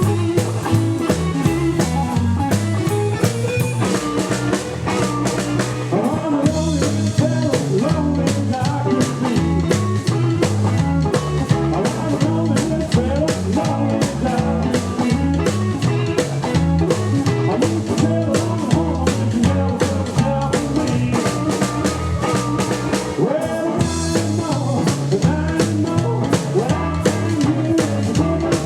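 Live rockabilly trio playing an up-tempo number: slapped double bass, electric lead guitar and drum kit keeping a steady driving beat.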